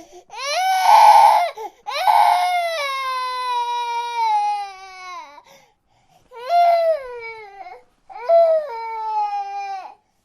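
Baby crying in four wails, each falling in pitch, with short pauses for breath between them; the first wail, about a second in, is the loudest and harshest, and the second is the longest.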